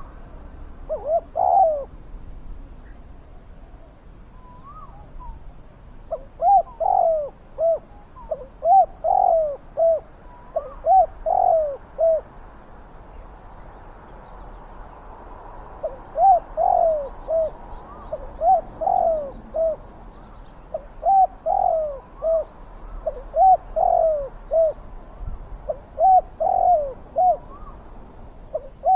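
Spotted dove cooing: repeated phrases of several short coos, each phrase one to two seconds long, coming every two to three seconds with a pause of a few seconds near the middle. Fainter, higher single notes sound between the phrases now and then.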